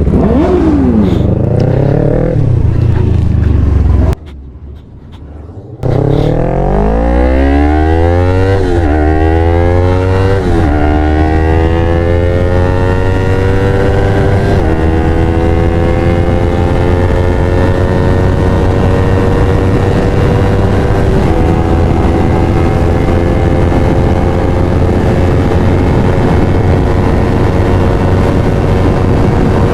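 Yamaha R3's parallel-twin engine through a Devil Evolution full-system exhaust with the dB killer removed, pulling hard up through the gears. The pitch climbs and dips at three quick shifts, then holds high revs, creeping slowly higher at speed. There is a brief quieter break about four seconds in.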